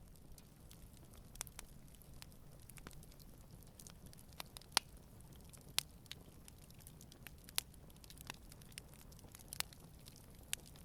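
Campfire crackling: scattered sharp pops and snaps from burning wood at irregular intervals, the loudest about five seconds in, over a faint low rumble of the flames.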